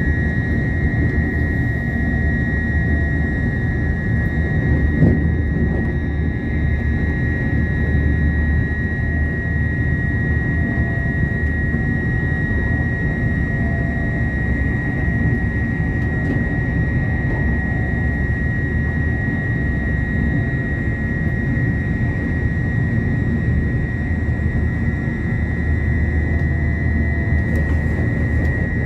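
Cabin noise of an intercity electric train running at speed: a steady rumble of wheels on rail, with a constant high whine over it. The rumble gets a little heavier near the end as another train passes alongside.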